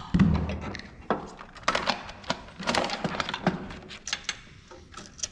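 Irregular knocks, clicks and clatter of printer parts and tools being handled during disassembly, with one heavy thump just after the start.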